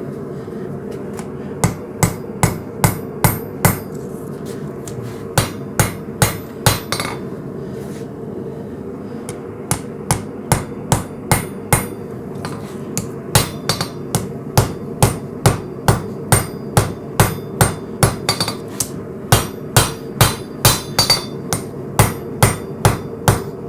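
Hammer striking hot coil-spring steel on an anvil during forging: runs of quick blows, about three a second, with short pauses between runs, over a steady background noise.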